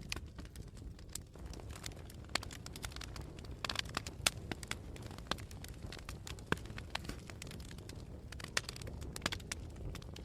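Campfire crackling: burning wood giving irregular sharp pops and snaps over a steady low rumble, with a quick cluster of louder pops about four seconds in.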